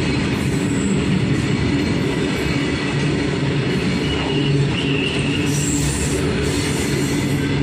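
Freight train wagons rolling past: a steady, loud rumble of wheels on rail, with a brief high-pitched wheel squeal about four seconds in.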